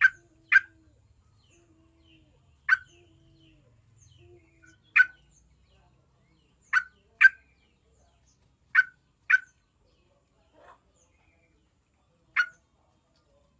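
Yellow-vented bulbul giving short, sharp call notes, some single and some in quick pairs, every second or two.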